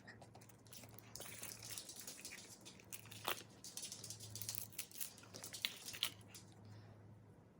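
Plastic packaging crinkling and tearing as it is worked open by hand, with a few sharp clicks.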